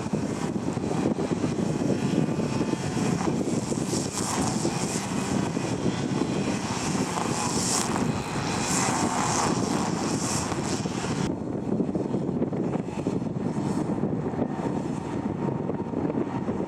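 Airliner jet engines running, a steady dense noise. The higher hiss drops away suddenly about eleven seconds in.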